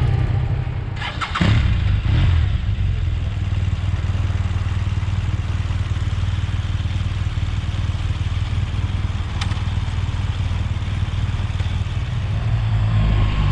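BMW R1200GS boxer-twin motorcycle engine running steadily under way, heard with wind noise from riding. There is a short dip and surge in the engine sound about a second in, and the pitch rises near the end as it accelerates.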